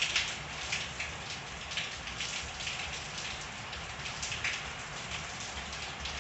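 Steady rain falling in a backyard, with irregular louder drips and splashes over the steady patter.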